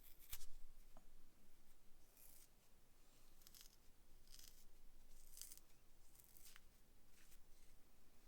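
Quiet handwork on small parts: about ten short, hissy scrapes or snips at uneven spacing, with one sharper click near the start.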